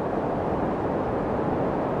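Steady, unchanging white noise played to soothe a crying infant, weighted toward the low and middle range so it sounds like a soft, muffled rush rather than a bright hiss.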